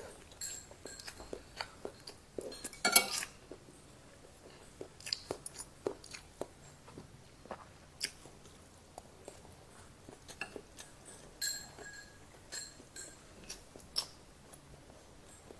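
Close-miked chewing and lip-smacking on a mouthful of fried rice, with a metal spoon and fork clicking and scraping on a ceramic plate. The loudest is a brief clatter of cutlery about three seconds in.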